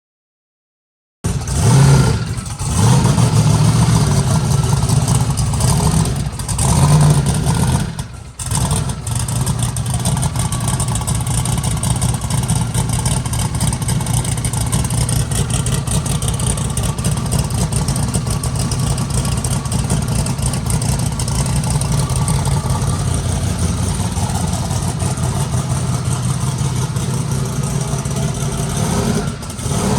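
Car engine starting up about a second in, revved a few times, then settling into a steady idle.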